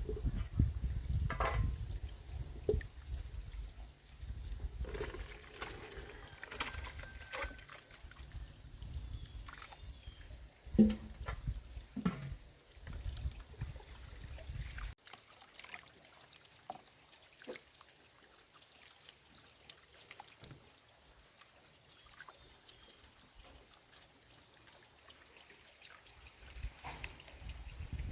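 Water trickling and pouring, with scattered small knocks and clicks. About halfway through, the sound drops abruptly and becomes much quieter.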